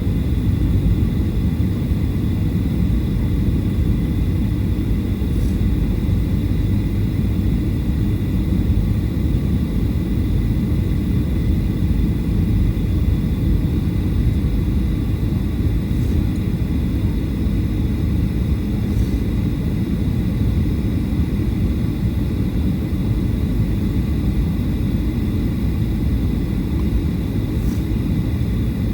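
Steady low cabin rumble inside a Boeing 737-800 airliner, the sound of its engines and airflow heard from a passenger seat, with a faint steady high whine and a few faint ticks.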